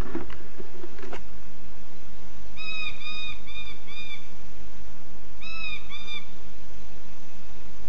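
A bird calling: a quick run of four short, arched notes, then three more a second and a half later, over steady hiss and a low hum from old video tape. A couple of faint knocks sound near the start.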